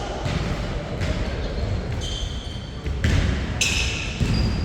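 Basketball being played on an indoor court: the ball bouncing with repeated thuds, and short high squeaks about three and a half seconds in, typical of sneakers on the floor.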